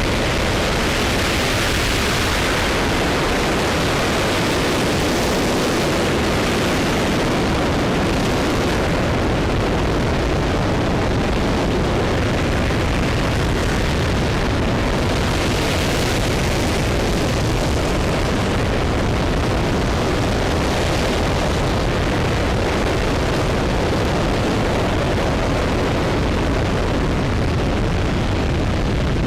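RS-25 liquid-fuelled rocket engine in a hot-fire ground test, burning continuously as a loud, steady, unbroken rush of noise.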